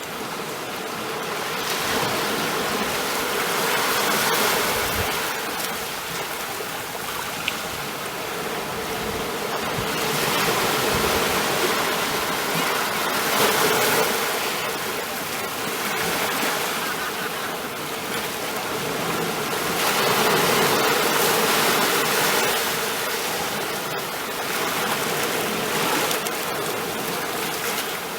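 Ocean waves breaking and washing onto a shore, a continuous surf noise that swells and ebbs every few seconds.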